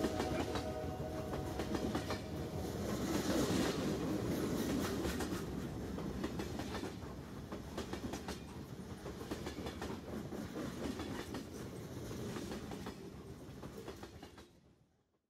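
Train running along the track, its wheels clattering over the rail joints, slowly fading out to silence near the end.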